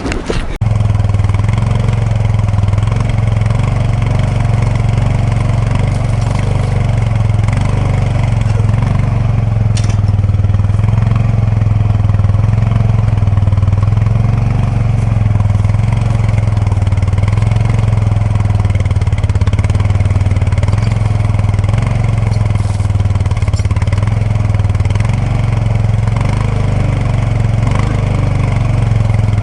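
Kubota B2650 tractor's three-cylinder diesel engine running steadily at an even pitch.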